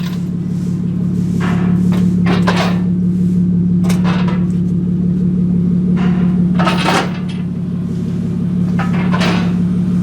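A muffler-deleted, straight-piped BMW E36 M3 inline-six idling steadily and loud, with sharp knocks and clacks breaking in over it about seven times.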